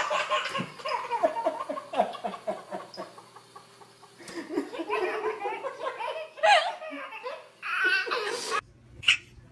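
Hearty laughter in rapid repeated bursts, cutting off abruptly near the end, followed by one brief high-pitched sound.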